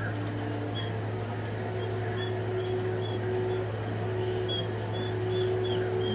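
A small bird chirping: short, thin, high-pitched chirps about half a second apart, over a steady low electrical hum.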